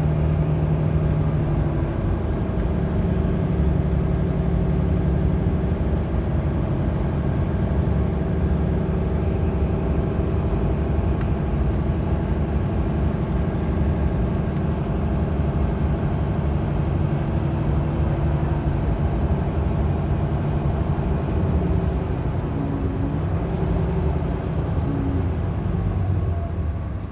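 Bus engine and road noise heard from inside the passenger cabin: a steady low drone, with the engine's pitch shifting a little near the end.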